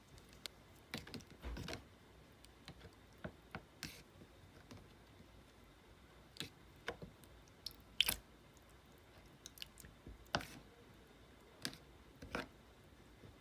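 Clear slime being mixed and handled, giving irregular sticky clicks and short squishes at uneven intervals, the loudest about eight seconds in.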